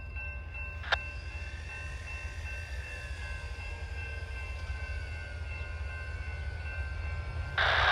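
Freight train's diesel locomotive horn sounding at a distance as a steady chord, one note slowly sliding lower, over a low rumble. A single sharp click comes about a second in, and a loud hiss cuts in just before the end.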